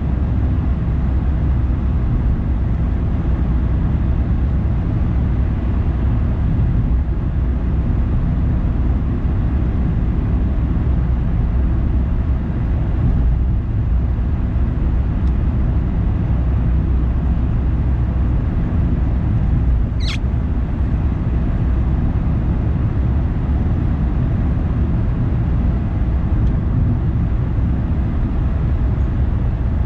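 Car driving along city streets: a steady low rumble of road noise and engine. About twenty seconds in there is one brief high squeak.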